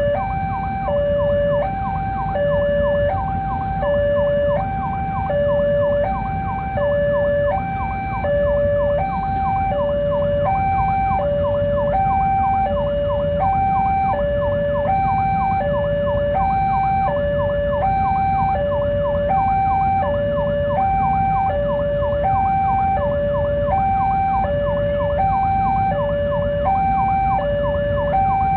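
Level-crossing warning alarm sounding, two tones alternating high and low, each held about two-thirds of a second, repeating without a break over a steady low rumble.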